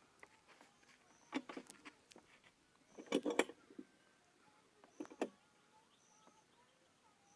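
Clamps and timber clicking and knocking as glued boards are drawn tight together: a few short clusters of clicks and knocks, the loudest about three seconds in.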